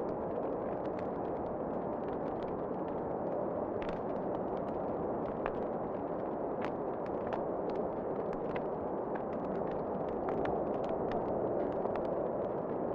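Wood fire crackling in a fireplace: many sharp, irregular pops and snaps over a steady rushing noise.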